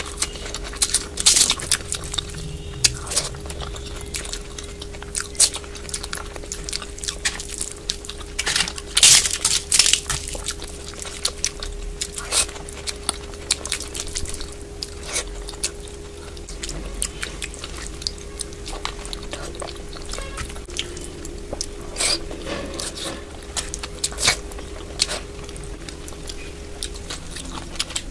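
Close-miked mukbang eating sounds: a person chewing and biting, with wet mouth smacks and clicks, crisp crunches of papad at times, and a hand squishing through soft dal khichdi. A faint steady tone hums underneath and stops near the end.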